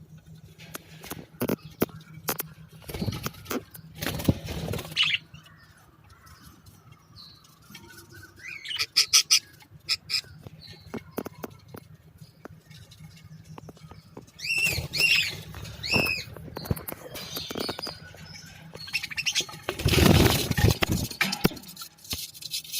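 Budgerigars chirping in short calls, a run of four arched chirps midway, with bursts of wing flapping and many sharp taps and scratches.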